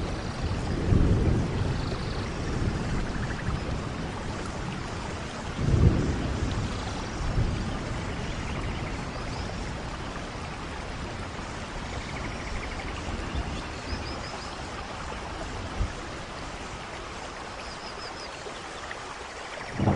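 Steady rain falling on forest leaves and ground, with low rumbling swells about a second in and around six seconds in. A few faint high chirps come through now and then.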